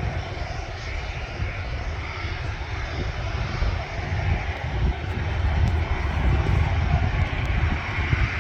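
Airliner engines running, a steady rushing noise over a heavy low rumble.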